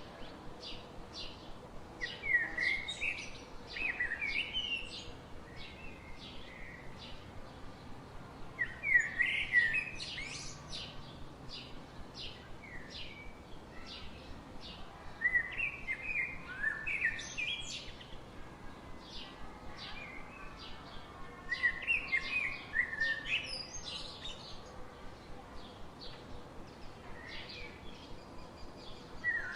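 A songbird singing a short phrase of quick chirping notes about every six to seven seconds, over a steady run of short high chirps about twice a second.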